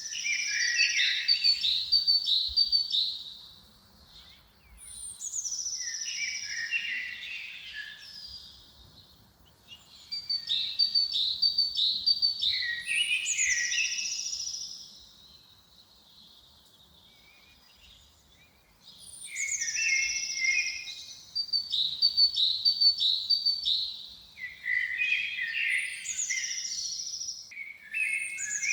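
A songbird repeating a song phrase about six times. Each phrase starts with a high descending whistle, runs into quick chirping trills, and is followed by a pause.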